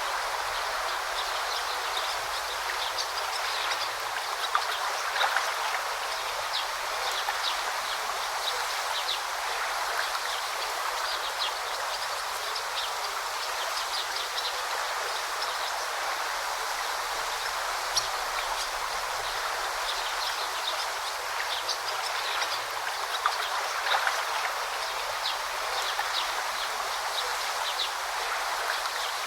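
Steady flowing of a forest stream, with short, high chirps from small birds scattered throughout.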